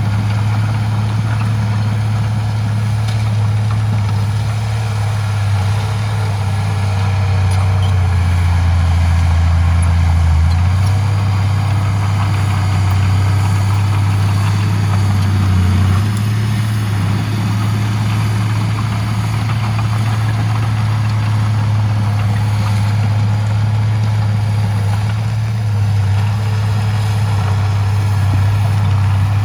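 Heavy diesel engine of earthmoving machinery running steadily at a low, even speed. Its deep hum shifts briefly about eight to ten seconds in and again around sixteen seconds in.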